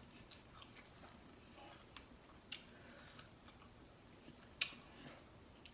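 Quiet eating sounds: scattered soft clicks and smacks of chewing seafood, with one sharper click about four and a half seconds in.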